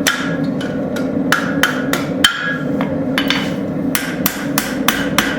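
Hand hammer striking a hot railroad spike on an anvil in quick blows, about two to three a second with a short pause partway through. Each blow rings briefly, with a steady low hum underneath.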